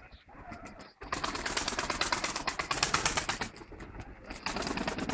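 Pigeons cooing, with a dense rattling and rustling that is loudest from about a second in to the middle and picks up again near the end.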